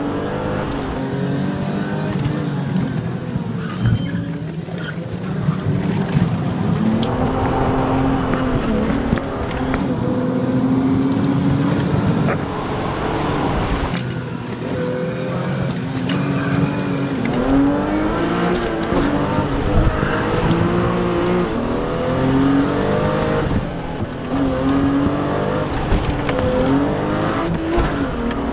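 Car engine heard from inside the cabin, accelerating hard, its pitch rising and then dropping again and again as it runs up through the gears.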